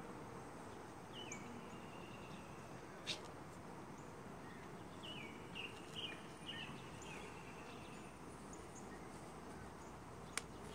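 Steady outdoor background noise with small birds chirping short, downward-sliding calls several times, mostly in the middle of the stretch. A single sharp click about three seconds in and another near the end.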